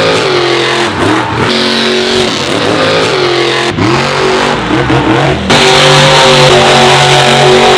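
Monster truck engines revving, the pitch climbing and falling several times. About five and a half seconds in, the sound switches abruptly to a louder, steady high-revving engine note.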